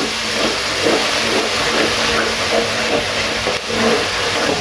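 Onion-paste masala sizzling in a nonstick frying pan while being stirred with a wooden spatula, the gravy being fried down until the oil separates. A steady low hum runs underneath and stops about four seconds in.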